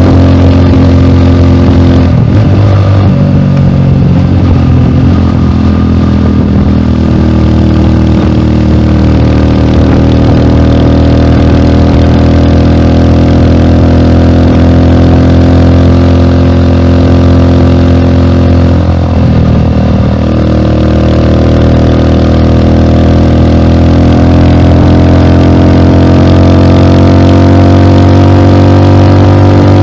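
Rusi Classic 250 motorcycle engine running through an aftermarket bullet-type muffler on the stock elbow pipe, at a steady low speed. The pitch changes briefly about two seconds in and again just before the midpoint, and the revs creep slowly upward near the end.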